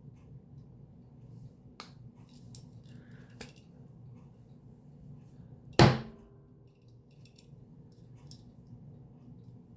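Small clicks and taps of a diecast model truck being handled, with one sharp knock about six seconds in, a hard object set down or bumped on a surface, under a low steady room hum.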